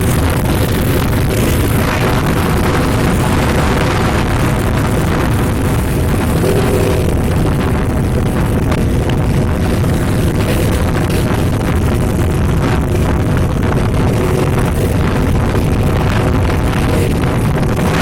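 Heavy trucks driving past in a convoy: a loud, steady mix of engine and road noise.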